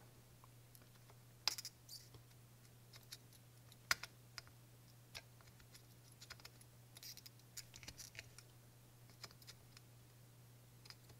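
Soldering iron tip and tool working a solder joint on a circuit board: faint, scattered small clicks and taps, a few close together past the middle, over a steady low hum.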